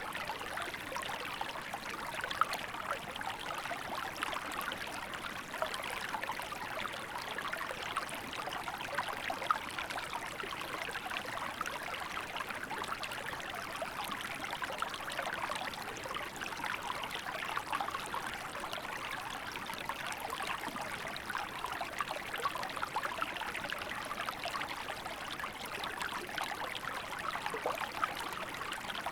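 Small river flowing steadily, a continuous babble of water with fine trickling and splashing detail.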